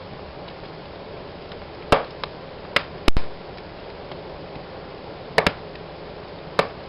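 Wood fire burning in a fireplace: a steady hiss of the flames with sharp crackles and pops from the wood at irregular moments, the loudest a quick pair of pops about three seconds in.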